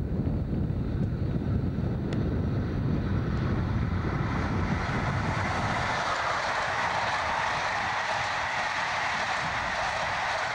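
Locomotive-hauled express passenger train passing at speed. A low rumble dominates as it closes in, then from about halfway a steady rush of wheels on rail as the coaches go by.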